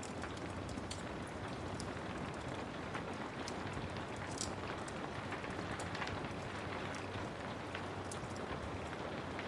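Steady rain with a wood fire crackling, its small sharp pops scattered irregularly over the even hiss of the rain.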